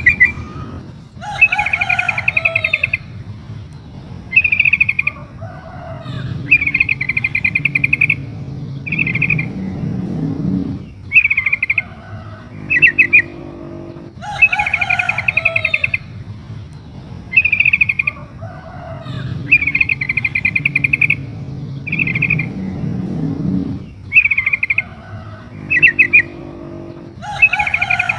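Female yellow-vented bulbul (trucukan) calling: short, bubbling, chattering phrases, one every second or two. This is the call a female uses to draw a male to answer. The same run of phrases repeats about every 14 seconds.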